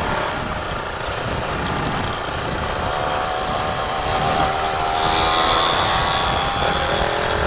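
Motorcycle engine held at high revs while riding at speed, its pitch creeping slowly upward, under heavy wind rumble on the microphone.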